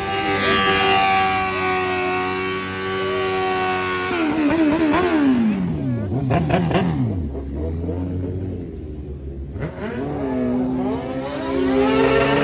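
A car engine revving hard: it holds high revs for about four seconds, falls away to a low rumble, then climbs again near the end.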